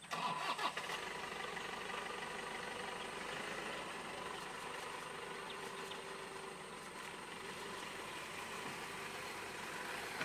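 Safari jeep engines idling steadily, with a few knocks in the first second.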